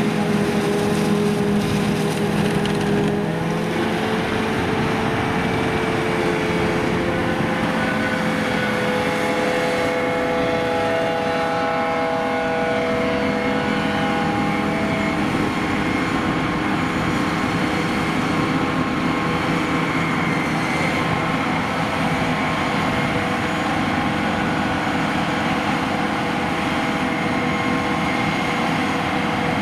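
Heavy diesel farm machinery running continuously, with engine tones that shift pitch a few times in the first half as the engine speed changes.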